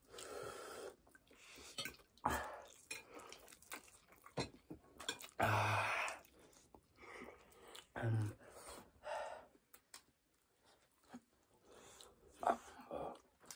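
Close-miked eating sounds of spicy chicken wings and noodles: chewing and wet mouth noises with small clicks of cutlery, and two louder bursts about five and a half and eight seconds in.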